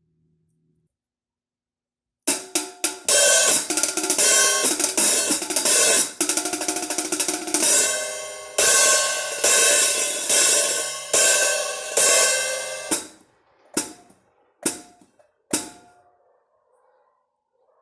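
Drum kit played with Krest Aged Brass cymbals (13-inch hi-hat, 14-inch crash, 18-inch crash ride, a brass alloy) and a Tama Rockstar snare. After about two seconds of silence comes a groove of about ten seconds with hi-hat and cymbal crashes, then three single strikes near the end, each left to ring out and fade.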